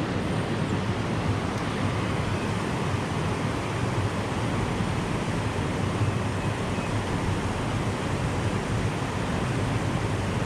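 Steady rushing noise of creek water, with some wind on the microphone.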